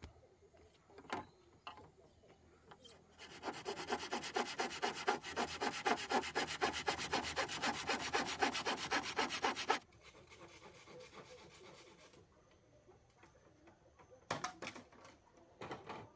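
Hand saw cutting wood in fast rasping strokes for about six seconds, followed by a few fainter strokes and two short knocks near the end.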